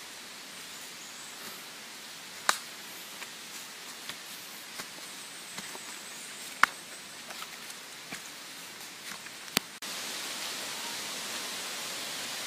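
Steady outdoor hiss with a few sharp clicks and snaps scattered through it. Just before the end the hiss steps up abruptly louder.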